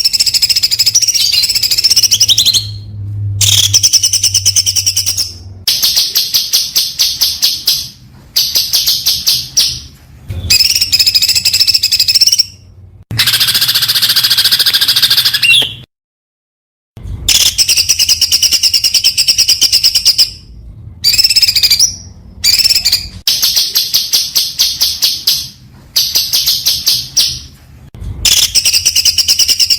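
Songbird singing very fast, high-pitched rapid-fire trills, in loud phrases of one to five seconds separated by brief pauses, over a faint low hum.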